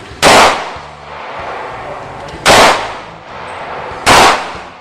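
Three loud gunshots, the second about two seconds after the first and the third about a second and a half later, each with a short echo.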